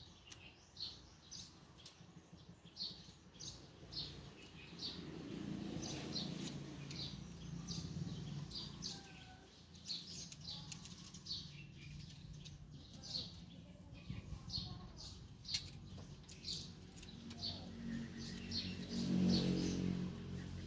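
A small bird chirping over and over, about two short high chirps a second, with a few faint clicks from the knife cutting coconut husk. A low hum swells near the end.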